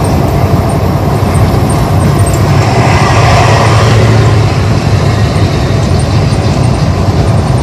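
Loud, steady road and wind noise from a car driving at highway speed, with a low engine and tyre hum underneath.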